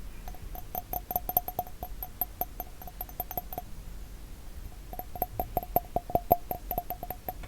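Glass bottle being tapped rapidly, each tap giving a short clear ring at the same pitch. Two fast runs of taps, with a brief pause between them about halfway through.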